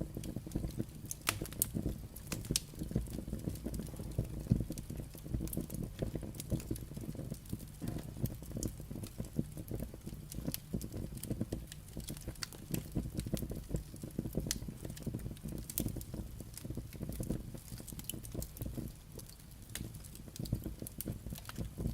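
Wood fire burning: a steady low rush of flame under frequent, irregular sharp crackles and pops from the logs.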